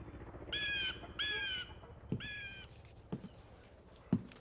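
A crow-like bird cawing three times in short, harsh calls, over a low hum that fades out after the first couple of seconds. A few soft knocks follow about a second apart, the last and loudest near the end.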